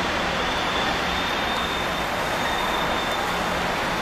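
Electric passenger train pulling into a station platform and slowing, with a steady rolling rumble. A thin, high, steady whine comes in about a second and a half in and holds.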